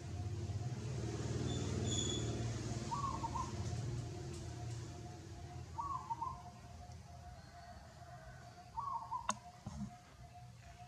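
A bird giving a short warbling call about every three seconds, over a low rumble that fades after the first few seconds and a faint steady hum. A sharp click comes near the end.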